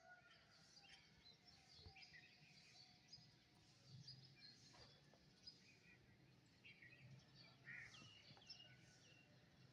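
Several wild birds singing and chirping faintly, with many short overlapping calls and whistles, some falling in pitch, over a low steady hum.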